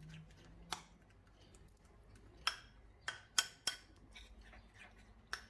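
A small spoon clicking against a bowl while mixing a thick face-mask paste, in scattered sharp taps, a few close together past the middle.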